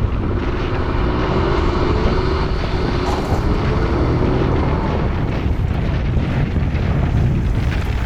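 BMW 530d's straight-six diesel engine pulling as the car is driven over a rough, bumpy field, under a steady low rumble. A faint engine tone rises slowly over the first few seconds.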